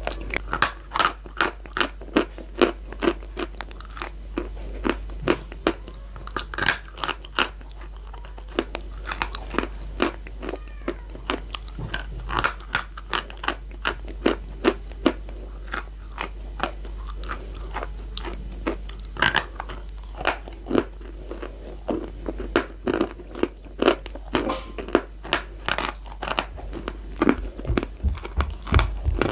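Close-miked crunching and chewing of chalk: a steady run of crisp cracks and crackles as chunks are bitten and ground between the teeth.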